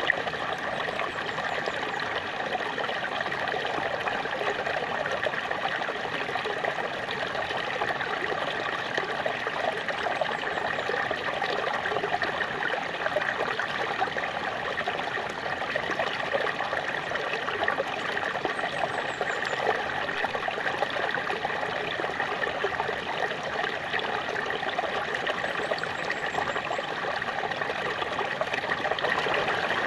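A small waterfall running steadily: an even, unbroken wash of falling and splashing water.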